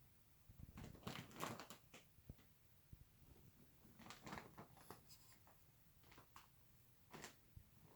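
Near silence in a small room, broken by a few faint clusters of short rustles and clicks: about a second in, around four seconds in, and once near the end.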